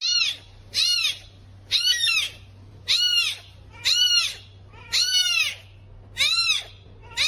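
A kitten meowing over and over, eight short high-pitched meows about one a second, each rising and falling in pitch.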